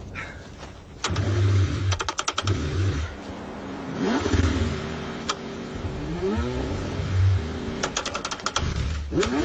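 A car engine being cranked in the cold: the starter turns it over in bursts with rapid clicking twice, and the engine note rises and falls as it struggles to catch.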